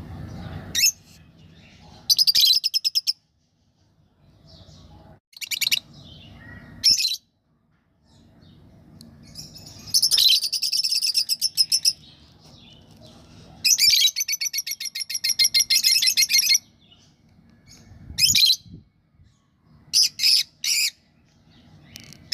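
Lovebirds chattering: shrill short calls and rapid, fast-pulsed runs of chirps. The longest runs come about ten and fourteen seconds in, each lasting two to three seconds, with brief single calls in between.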